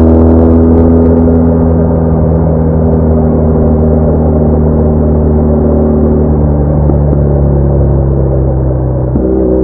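BMW R1200R's boxer-twin engine running under way, its note slowly falling, then stepping up sharply near the end.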